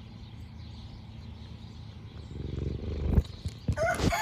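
Cat purring close to the microphone, a low steady rumble that grows louder about two seconds in, with a couple of knocks. Near the end a rooster starts to crow.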